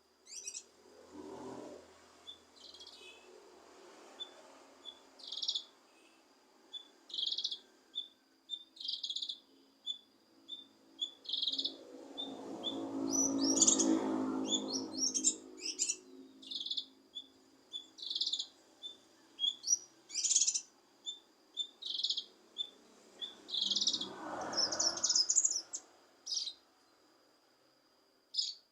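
Cucak kinoi calling: short, high chirps repeated about once a second over a faint steady high whine. A low rumble swells and fades around the middle and again near the end.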